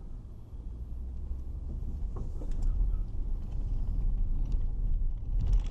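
Low rumble of a car driving, engine and road noise, growing louder, with a few light knocks about two seconds in.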